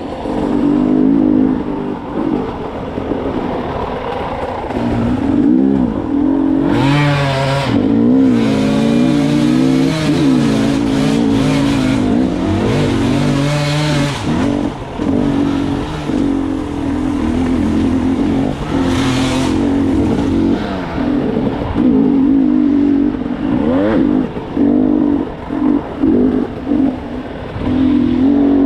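KTM dirt bike engine being ridden hard on a single-track trail, revving up and down constantly as the throttle opens and closes. Its pitch rises and falls throughout, with a few short, sharper high-rev bursts and quick drops as the throttle is chopped.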